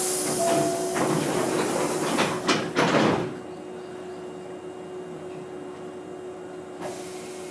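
Pneumatic sliding doors of a Nose Railway 5100 series (ex-Hankyu 5100) train closing: a sudden hiss of air, a rush of noise and a few knocks as the doors shut, about three seconds in all. A steady hum follows, with another short hiss of air near the end.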